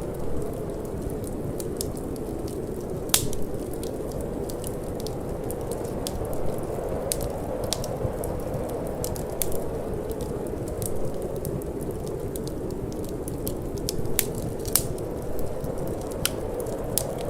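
Wood fire crackling in a fireplace, with frequent small sharp pops and a few louder snaps, the first about three seconds in, over a steady low rush of wind.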